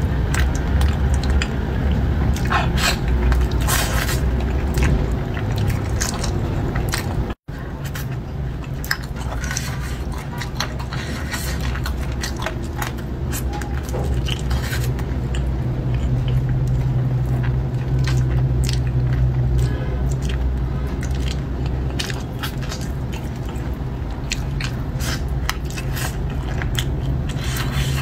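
Close-up chewing and biting of chili-sauced chicken feet: wet mouth sounds with many short clicks and crunches. The sound cuts out completely for a moment about seven seconds in.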